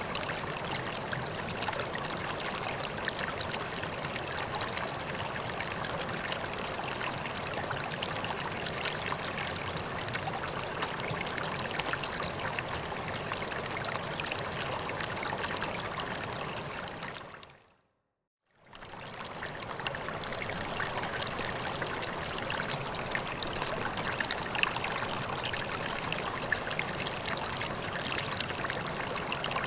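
Steady running and trickling water of a koi pond. It fades out about two thirds of the way through, goes silent for about a second, and fades back in.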